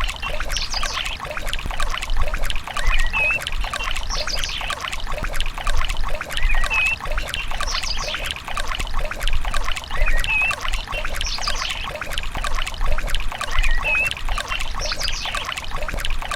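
Water pouring and trickling steadily, with a short bird chirp repeating about every three and a half seconds.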